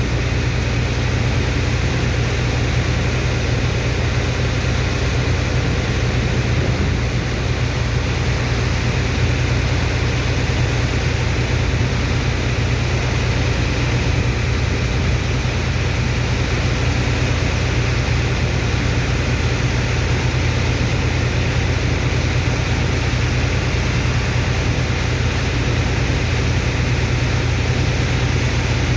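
Sand dredger's engine and pump running steadily, a continuous low drone with a rushing noise over it.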